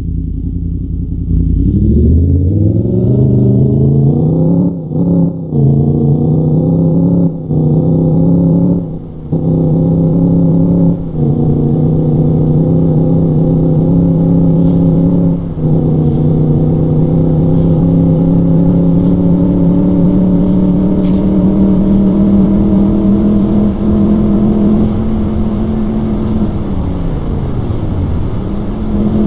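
Motorcycle engine pulling away and revving up through the gears, its note dropping briefly at each shift, then holding a steady speed. Near the end the revs fall and pick up again.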